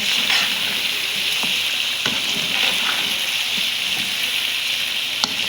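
Chicken pieces sizzling in hot oil with ground spices as they fry in a cooking pot, with occasional short clicks and scrapes of a spoon stirring.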